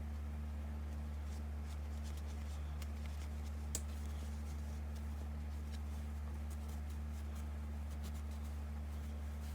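Faint rustling and light clicks from felt and craft tools being handled, with one sharper click about four seconds in, over a steady low hum.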